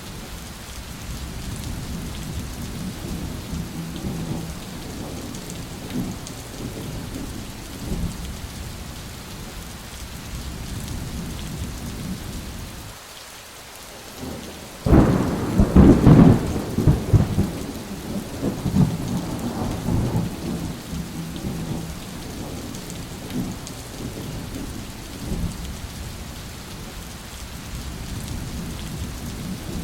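Thunderstorm: steady rain with low rolling thunder. About halfway through, after a brief lull, a loud thunderclap breaks suddenly and rumbles away over several seconds.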